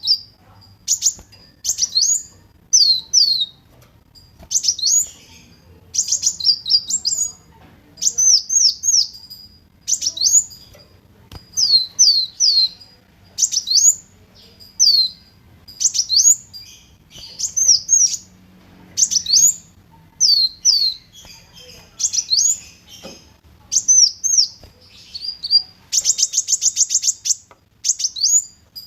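Kolibri wulung sunbird singing: short, high, downward-sweeping chirps in quick phrases about every second, with a rapid trill of evenly spaced notes near the end.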